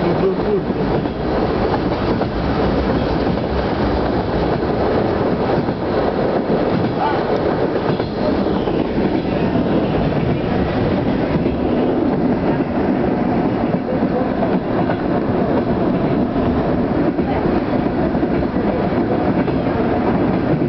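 Steady running noise of a train at speed, heard from on board: wheels on rails with faint clicks, close alongside a freight train's open wagons as it overtakes them.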